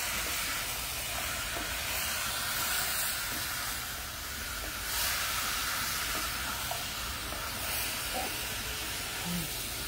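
Pieces of seasoned turkey frying in a pot: a steady sizzling hiss that swells briefly a few times as the meat is stirred.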